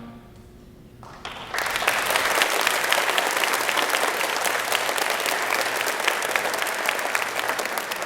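Audience applause in a large hall, starting after a brief hush about a second and a half in and continuing steadily.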